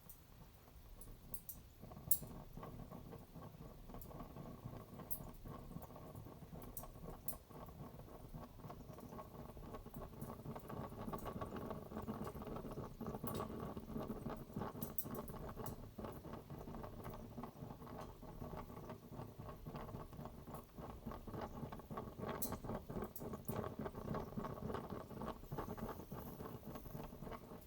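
Kerosene fireplace burning steadily, its flame giving a continuous noise with fine crackling. A sharp click about two seconds in, as the burning sound starts.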